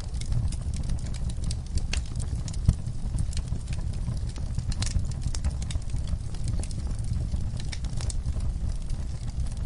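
Wood logs and coals burning in a fire pit, crackling and popping in irregular sharp snaps over a steady low rumble, with one louder pop a little under three seconds in.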